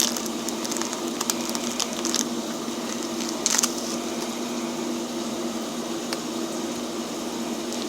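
A foil Pokémon booster pack wrapper being carefully torn open and handled, with a few short crinkles, the loudest about three and a half seconds in, over a steady low hum.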